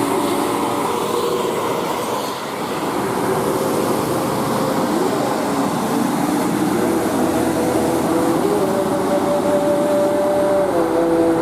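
Heavy vehicle engine running with a steady drone, its pitch stepping down near the end.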